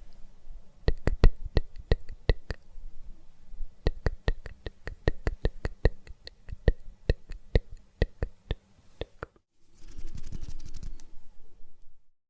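Quick sharp taps or clicks on a hard object, about four to five a second, close to the microphone as an ASMR trigger. About nine seconds in they give way to a couple of seconds of denser crackling that cuts off.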